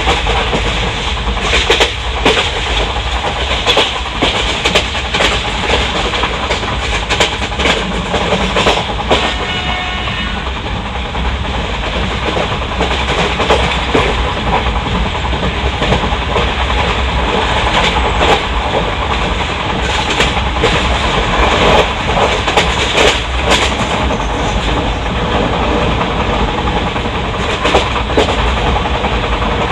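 Wheels of an Indian Railways ICF passenger coach rolling at speed over the track: a continuous rumbling running noise with irregular clickety-clack knocks from the rail joints.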